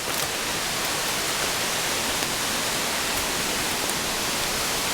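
Steady, even rush of a rain-swollen creek and its cascading water.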